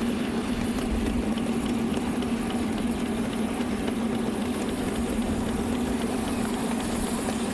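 Steady running noise of a 7¼ inch gauge miniature steam locomotive coasting with the regulator shut: wheels rolling on the rails with a constant low hum and faint light ticks, and no exhaust beats.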